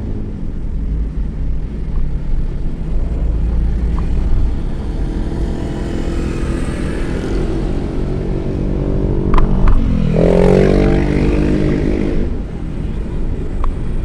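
Road vehicle engines running in traffic over a constant low rumble. About ten seconds in, an engine's pitch drops and then climbs again, and a few short clicks come just before it.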